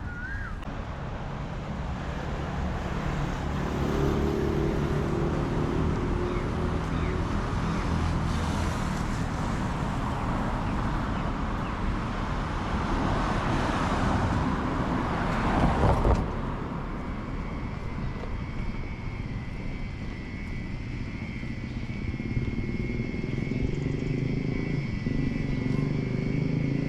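Motor vehicle traffic: engines running steadily, with a louder swell that builds and drops away sharply about 16 seconds in.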